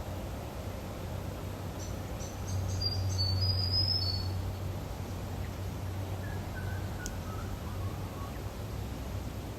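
Lakeside outdoor ambience: a bird gives a brief burst of high chirps about two to four seconds in, then a short run of falling notes a few seconds later, over a steady low hum.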